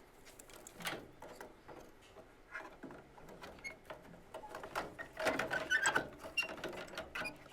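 Irregular clicks and rattles of plastic mounting clips and a circuit board against a sheet-metal control box as the furnace control board is handled and pressed into place, busiest about two thirds of the way through.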